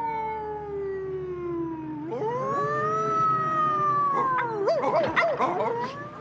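A cartoon dog's drawn-out howl of pain over a hurt tail. One long falling wail is followed by a rising, held wail that wavers and breaks up near the end.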